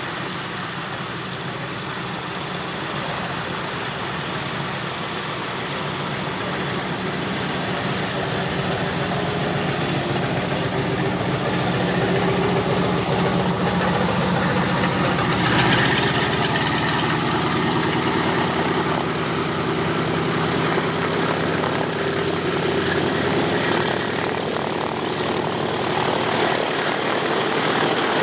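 A propeller-driven piston-engined aircraft flies past. Its engine drone grows steadily louder, peaks about halfway through with a drop in pitch as it passes, then carries on at the lower pitch.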